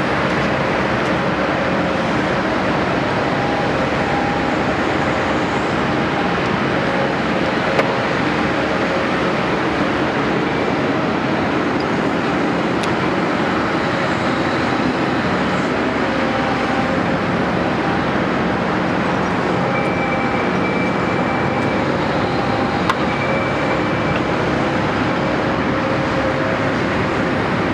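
Caterpillar 329E hydraulic excavator running steadily, with a faint whine that wavers in pitch over the dense machine noise. A sharp knock comes about a third of the way in, and another near the end.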